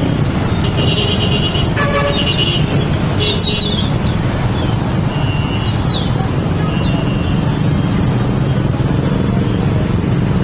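Steady engine rumble of cars and motorcycles in jammed traffic, with several short high-pitched beeps scattered through it.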